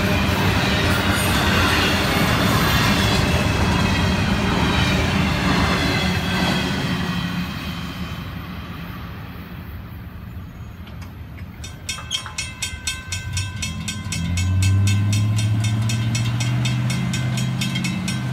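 The tail end of a double-stack intermodal freight train rolls past over the crossing, its wheels clattering on the rails, and fades out about eight seconds in. From about twelve seconds in, a fast, even run of electronic crossing-bell dings sounds, and a road vehicle's engine pulls away across the tracks near the end.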